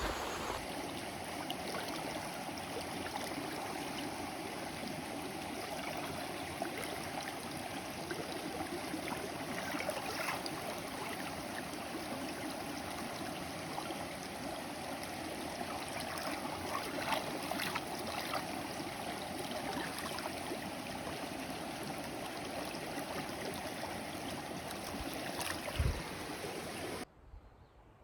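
Small mountain stream flowing over rocks, a steady rushing and babbling that cuts off suddenly about a second before the end.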